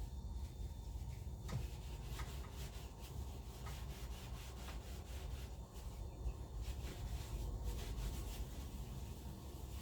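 Rubbing and scraping, with scattered light clicks, over a low steady rumble.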